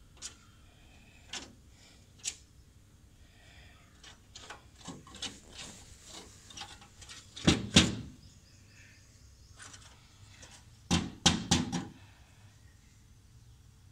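Woodpecker pecking and knocking at a glass mirror: irregular sharp taps, some single, some in quick clusters, with a few much louder strikes.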